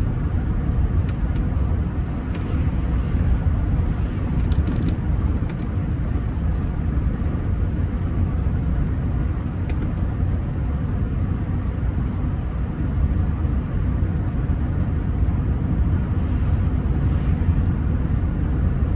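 Steady in-cabin driving noise of a Rolls-Royce Silver Spirit III on the move: low engine and tyre rumble, with a few faint clicks.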